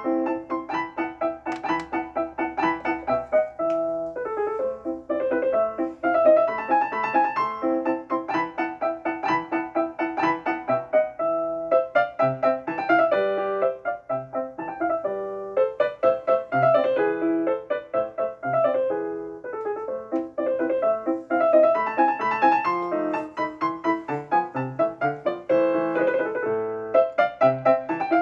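Solo piano music with a quick, even stream of notes.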